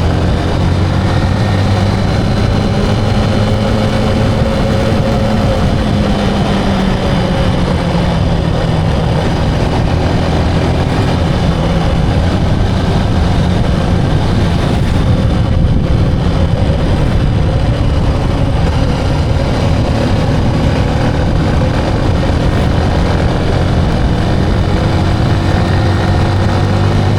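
Motorcycle engine running steadily under way, its pitch drifting only slightly.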